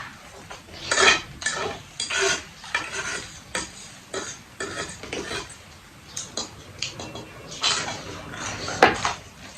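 Cutlery clinking and scraping against plates or bowls while eating, in irregular short knocks, loudest about a second in and again near the end.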